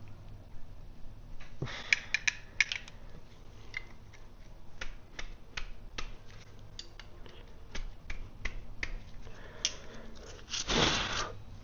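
Scattered light clicks and clinks of metal parts and hand tools being handled while the thermostat housing is swapped on a Kubota diesel, with a short louder rustle or scrape near the end.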